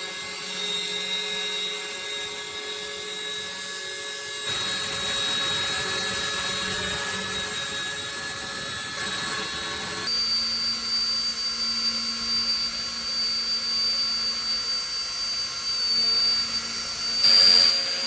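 RC model helicopters' electric motors and rotors running with a steady high-pitched whine over a rushing hiss, the pitch pattern changing abruptly about four and a half, ten and seventeen seconds in.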